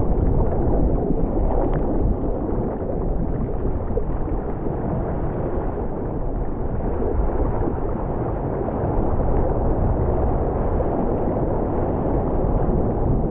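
Strong wind of 25-30 knots buffeting the microphone over rushing, churning sea water: a loud, steady rumbling roar with no break.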